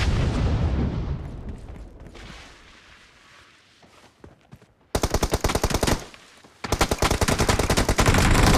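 Video-game automatic gunfire: a loud low rumble fades away over the first couple of seconds, then after a short lull a rapid burst of automatic fire about five seconds in, followed by sustained rapid fire from about six and a half seconds on.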